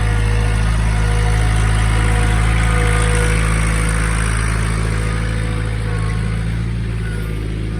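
Sawmill engine running steadily, with a rushing noise that swells in the middle and eases toward the end.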